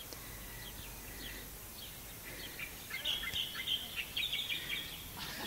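Birds chirping in quick, short notes, thickest from about halfway in, over a faint steady outdoor background hiss.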